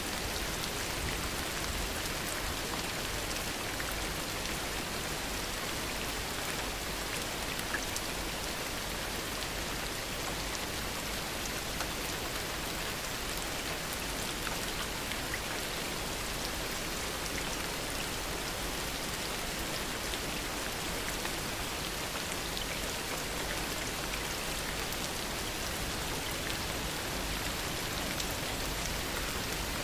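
Steady heavy rain falling and pattering on surfaces, with scattered individual drop ticks.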